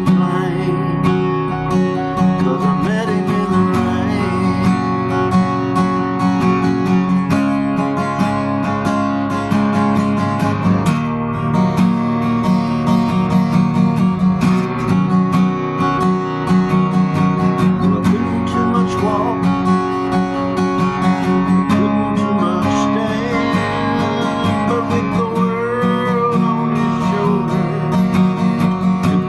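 Song music without vocals: acoustic guitar strumming chords, with a melody line that bends in pitch here and there.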